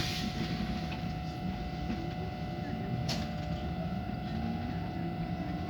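Inside a stopped electric commuter train: a steady hum from the train's onboard equipment over a low rumble, with a single sharp click about three seconds in. Near the end a low whine begins to rise as the train starts to pull away.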